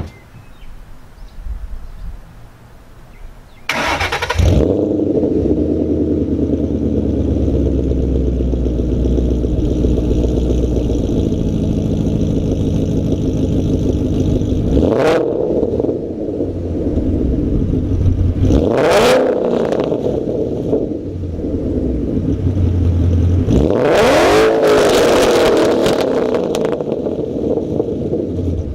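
Ford Mustang GT's Coyote 5.0 V8 breathing through BBK long-tube headers, a catted X-pipe and Roush axle-back mufflers: it starts up a few seconds in with a loud flare, settles into a loud idle, and is revved three times, two short blips and a last, longer rev.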